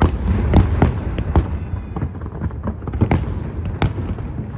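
Aerial fireworks shells bursting in quick succession, a dozen or so sharp booms and cracks over a continuous low rumble.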